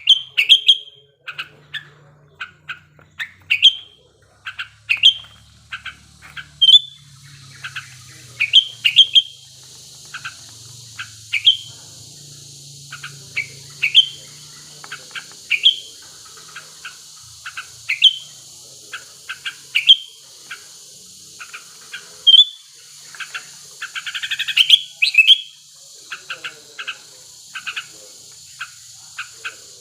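Sooty-headed bulbul (kutilang), a male in breeding condition, calling over and over: short sharp chirps and brief phrases every second or two, with a quick chattering run about three-quarters of the way through. A steady high hiss comes in about seven seconds in.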